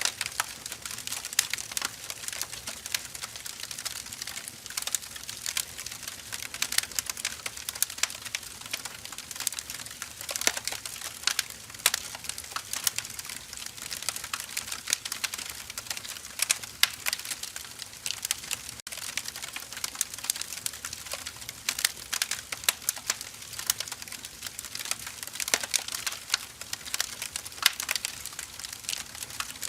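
Firewood burning, with a steady stream of irregular crackles and sharp pops.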